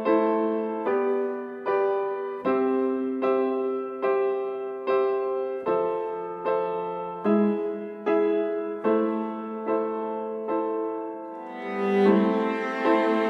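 Song intro on piano: slow, sustained chords struck about once every 0.8 seconds. Near the end the music swells into a fuller arrangement.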